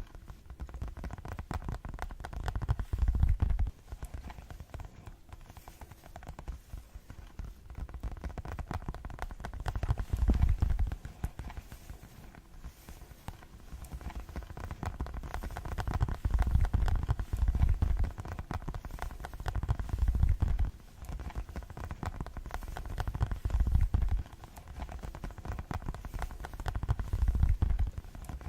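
Fast fingertip tapping for ASMR: a dense stream of rapid taps that swells into louder, heavier stretches every few seconds, with deep thuds under the clicks.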